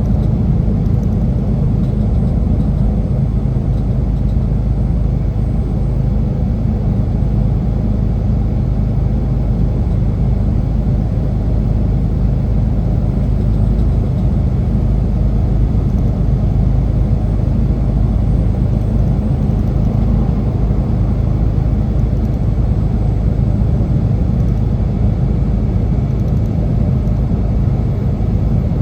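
Semi truck's diesel engine and road noise, a steady low rumble while driving.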